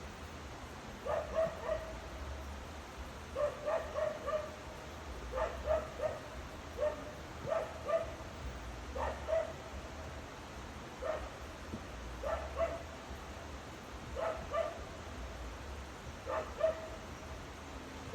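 A dog barking repeatedly in short runs of two or three barks, a run every second or two.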